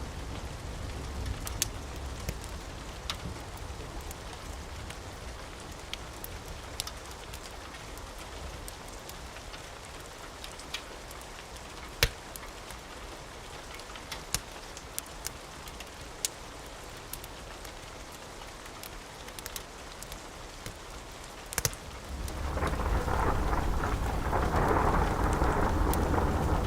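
Steady rain with scattered sharp crackles from a fire. About 22 seconds in, a roll of thunder swells up and keeps rumbling.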